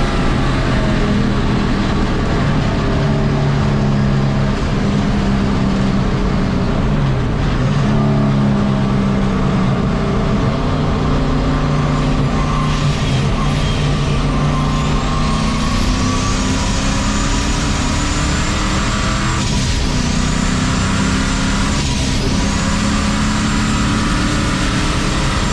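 1951 Chevy race truck's turbocharged engine running hard on track, its revs climbing and dropping through the gears. Over the second half a high whine from the 80 mm VS Racing turbo rises and holds, cutting out briefly twice before coming back.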